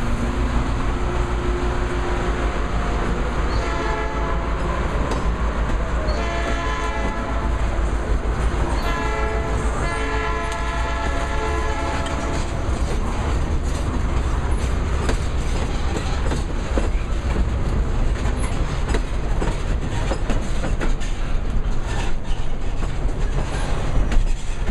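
Railroad tank cars rolling past with wheel and rail clatter. The lead locomotive's horn sounds ahead of them in three blasts during the first half, the last one the longest.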